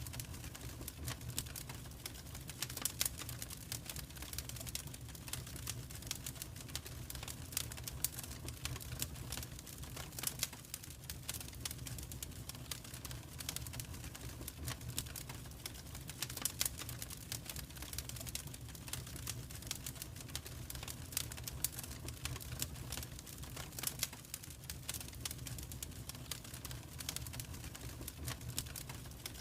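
Wood fire in a fireplace crackling and popping: a steady stream of irregular sharp crackles, with a few louder pops, over a low rumble of the flames.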